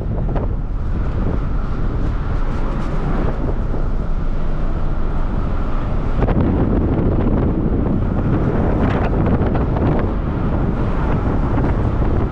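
Wind buffeting the microphone over a steady low rumble, with gusts that come and go; the rumble fits the ferry's engines at sea.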